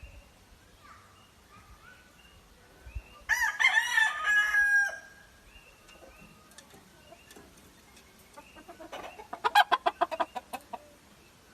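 Gamefowl rooster crowing once, a few seconds in, the crow ending on a held note. Near the end comes a fast run of about a dozen short clucks.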